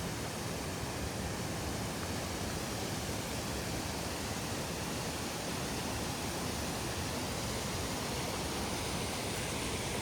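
Waterfall water falling and splashing as a steady, even rush.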